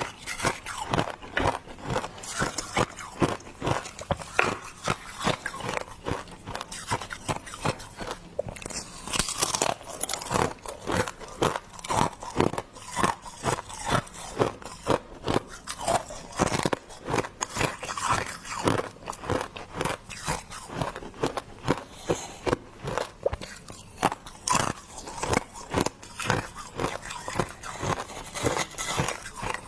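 Close-miked crunching and chewing of freezer frost: rapid, irregular icy crunches of a mouth biting down on packed frost, repeating throughout.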